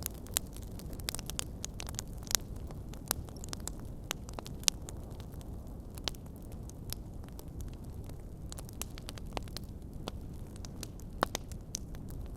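Wood fire crackling: a steady low rumble of burning with frequent irregular small pops and a few sharper snaps.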